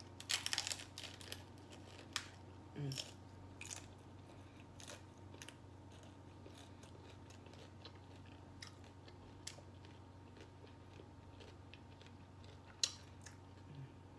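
A crunchy taco shell being bitten into and chewed. A quick cluster of sharp crunches comes about half a second in, then scattered crunches and mouth noises, with one loud crunch near the end.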